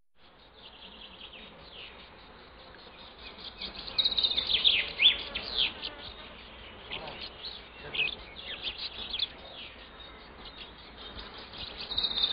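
Birds chirping in quick, high, down-slurred calls. They come in clusters, busiest from about four to six seconds in and again near the end, over a faint steady high hum.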